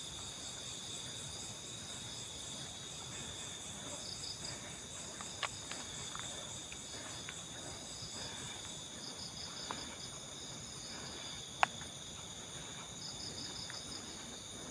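Forest insect chorus: crickets and other insects buzzing steadily in several high-pitched layers, with bursts of pulsed chirping coming and going. A few faint clicks, and one sharp click about two-thirds of the way through.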